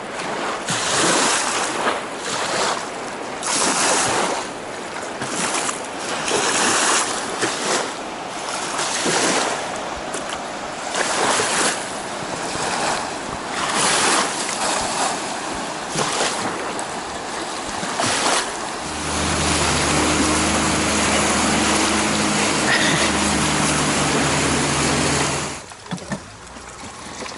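Whitewater rushing and waves splashing against a raft in a river rapid, rising and falling in surges. About 19 s in, a steady low hum starts and runs for about seven seconds before cutting off.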